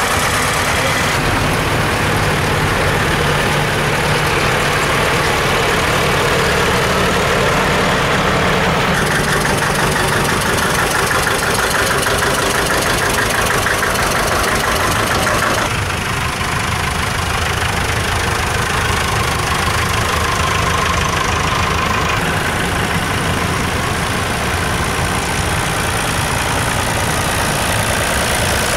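Tractor engines running steadily, with the engine note changing abruptly several times as different tractors are heard.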